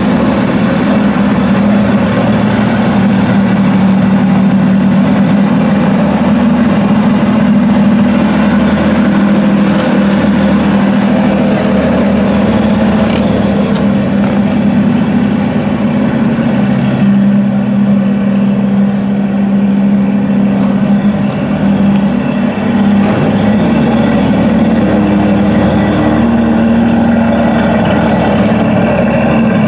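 Aston Martin DBS Superleggera's 5.2-litre twin-turbo V12 idling steadily after a cold start, its pitch shifting slightly a couple of times.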